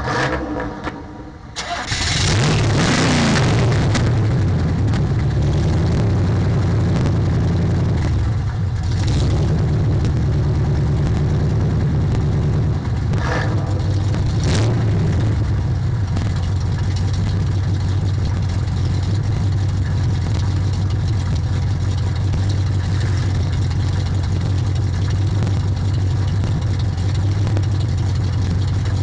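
Loud car engine being started: a second or so of cranking, then it catches about two seconds in and settles into a steady, loud idle. The microphone distorts on it.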